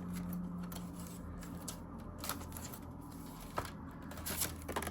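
Soft scattered clicks and rustles of hands handling paper cash and envelopes, over a steady low hum.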